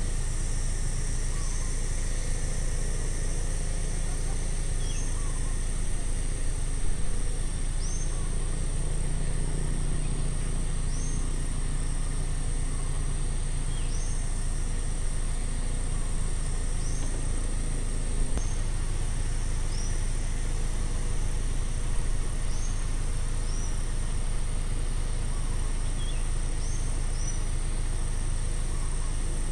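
Outdoor ambience: a steady low rumble of distant road traffic under a constant high insect drone, with a bird giving short high chirps every two to three seconds.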